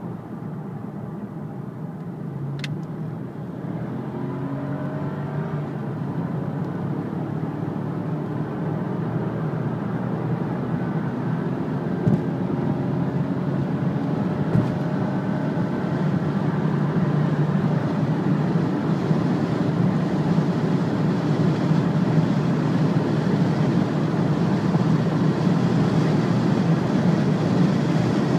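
Mercedes CL500's 5.0-litre V8 under full throttle, heard from inside the cabin, rising in pitch as the revs climb. Wind and road noise grow steadily louder with the speed.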